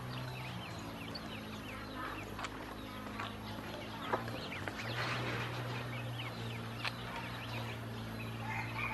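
A flock of ducklings peeping continuously: many short, high, falling chirps overlapping, with a few sharp clicks, over a steady low hum.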